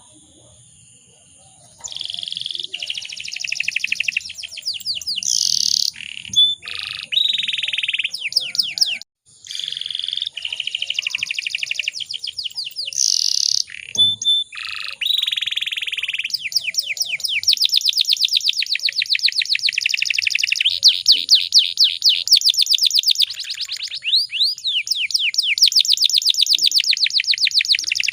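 Domestic canary singing in fast, dense trills and rolling phrases, starting about two seconds in, with a brief break about a third of the way through.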